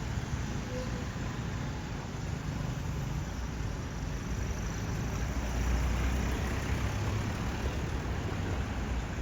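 Street ambience with a low vehicle engine rumble that swells about six seconds in, as if a car or motorbike passes close by.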